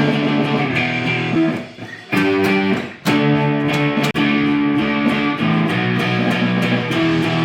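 Electric guitar strumming loud, ringing chords, each chord held and then struck anew about every second or two, with a brief break just before the second chord.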